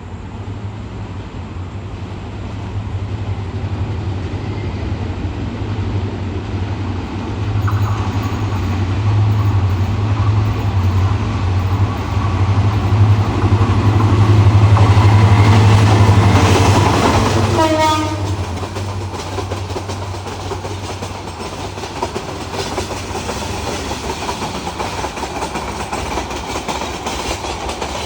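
Brahmaputra Express train with a diesel locomotive: a deep engine hum builds, and a horn sounds from about eight seconds in. The hum and horn cut off sharply near eighteen seconds, as if the locomotive has gone by. After that the carriages keep rattling with a steady clickety-clack over the rails.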